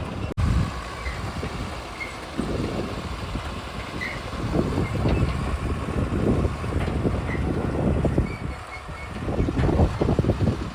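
Heavy vehicle driving, its diesel engine giving an uneven low rumble that swells and falls.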